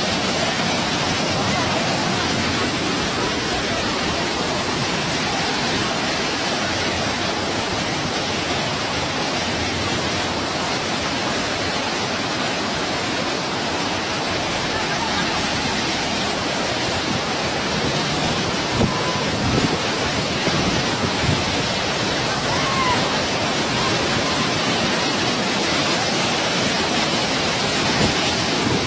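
Steady, even rushing noise, with a few faint knocks about two-thirds of the way through.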